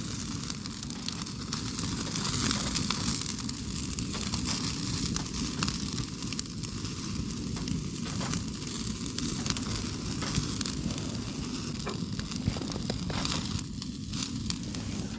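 Food sizzling as it cooks over a campfire: a steady hiss with frequent small crackles and pops.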